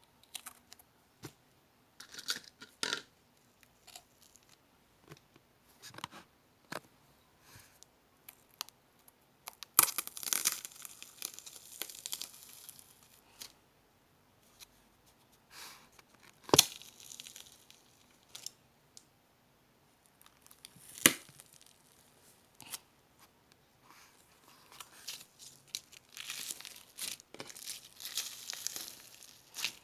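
Hands kneading and pressing cream slime with meringue cookies mixed in: sticky crackles and crunchy pops in scattered bursts, with single sharp pops in the middle and a longer run of crackling near the end.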